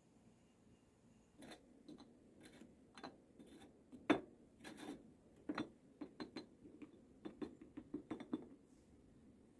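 Irregular clinks and light knocks of dishes and utensils, a couple of dozen over several seconds, the sharpest about four seconds in.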